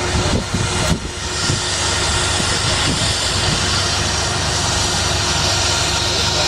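Jet engines of an Air France Airbus A319 running at high power, a steady rushing noise that builds over the first two seconds and then holds.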